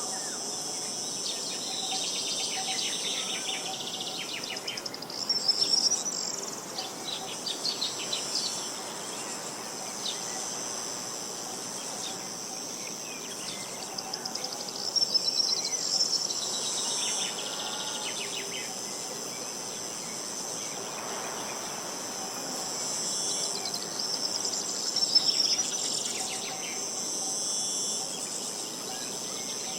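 A steady, high-pitched chorus of insects buzzing. Over it a songbird sings short, rapid trilled phrases three times: near the start, about halfway and near the end.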